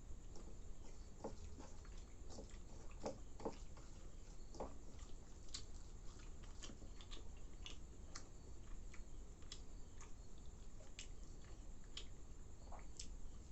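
A person eating flattened rice soaked in milk, with wet chewing and irregular soft clicks.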